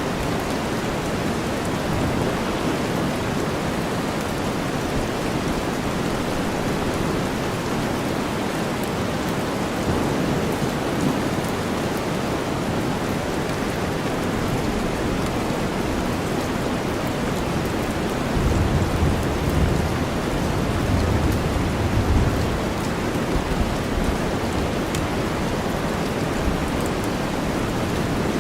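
Steady rain mixed with deep white noise, an even hiss with no pauses. About two-thirds of the way through, a low rumble swells for a few seconds and then fades.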